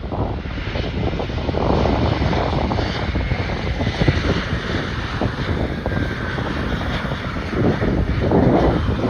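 Airliner engine noise as an aircraft passes, with a faint whine that falls in pitch partway through. Gusty wind buffets the microphone underneath.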